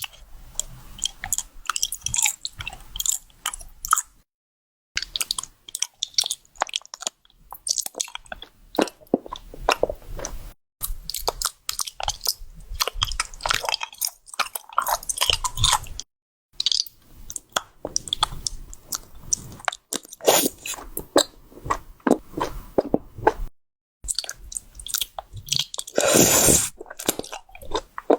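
Close-miked biting and chewing of wax bottle candy: crisp cracking crunches as the wax shells break, with wet chewing between them. The sounds come in stretches cut by several brief silences, with one louder, longer crunch near the end.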